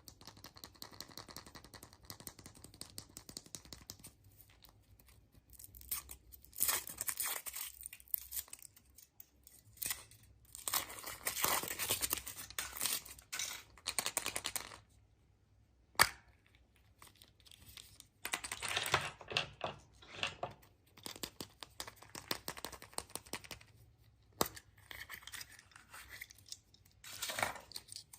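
Surprise egg wrappers being crinkled and torn open by hand, in several bursts of rustling, with one sharp click about halfway through.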